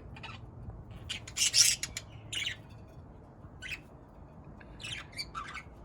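Budgerigars calling: short, scattered squawks and chirps, the loudest cluster about a second and a half in.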